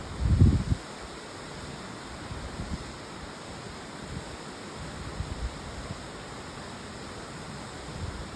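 Strong wind blowing, with a steady rush and gusts buffeting the microphone as low rumbles, the strongest about half a second in and smaller ones after.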